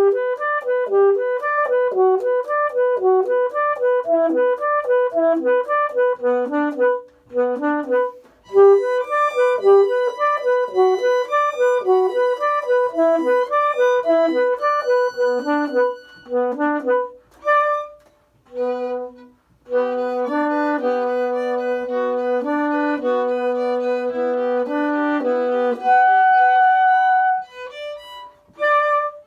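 Violin and saxophone duo playing a contemporary composed piece. It opens with a run of short, detached notes in a steady rhythm, broken by brief pauses, and then moves to longer held notes in both instruments.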